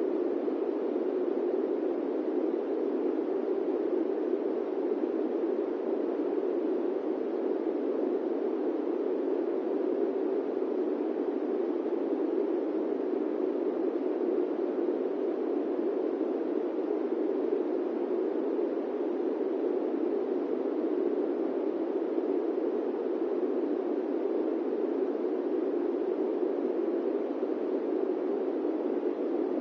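Steady airplane cabin drone: an even, low-pitched rushing noise with no changes.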